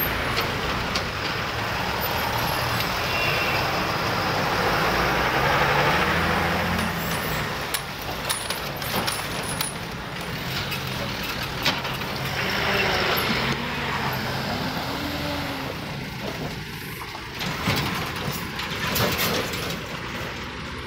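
Narrow-gauge train moving off past the crossing: a steady engine drone, loudest in the first third, with scattered sharp clicks and clacks in the second half as it draws away and fades.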